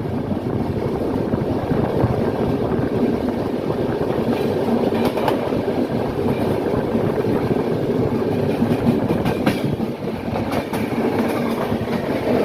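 Passenger train running along the track, a steady rumble with a few sharp clicks from the wheels passing over rail joints.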